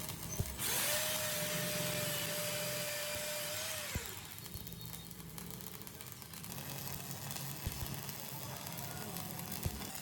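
A small power-tool motor spinning up with a steady whine and hiss, running for about three seconds and then cutting off, leaving a quieter hum with a few light knocks.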